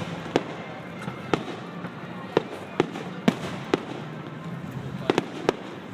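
Fireworks going off: about nine sharp bangs at uneven spacing, three of them close together about five seconds in.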